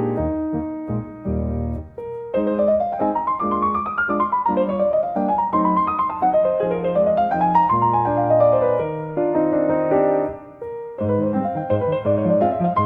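Solo piano music, slow and gentle, with flowing arpeggios that rise and fall. It eases off briefly twice, about two seconds in and again near the end.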